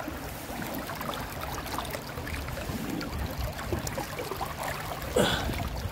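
River water trickling and flowing along the bank, with a louder short sound about five seconds in.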